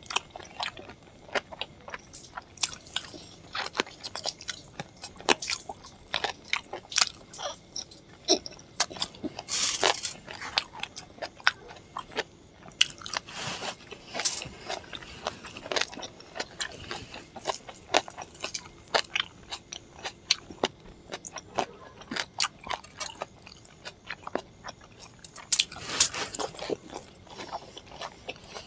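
Close-miked chewing and mouth sounds of a person eating luchi with chicken curry by hand: many short, irregular wet smacks and clicks.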